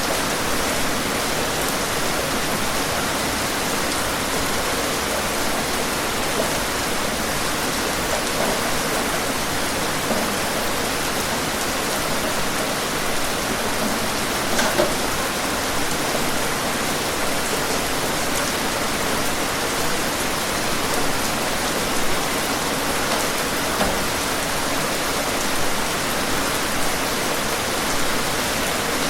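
Steady heavy rain, a dense even hiss with a few louder drop hits, clearest about halfway through.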